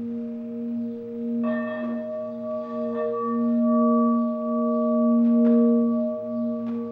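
Pink crystal singing bowl ringing with a steady low tone and higher overtones that swell and pulse. Brighter overtones come in about a second and a half in.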